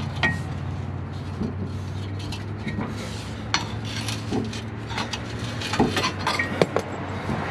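Metal tools clinking, knocking and scraping on an exhaust flange as a pry bar works the old exhaust gasket off, in scattered sharp clinks. A low steady hum runs underneath for the first five seconds or so.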